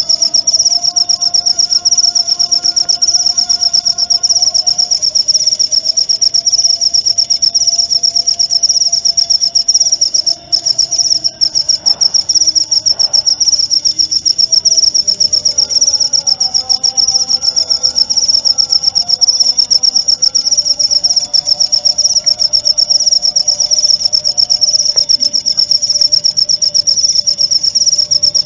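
Field cricket chirping in one long, continuous, rapidly pulsing high trill, with a brief break about ten seconds in. Fainter, lower wavering calls sound underneath.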